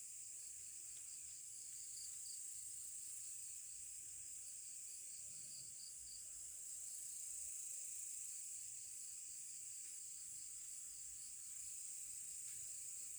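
Night insects such as crickets chirping: a steady, high-pitched trill with a row of rapid repeating chirps just below it, faint overall.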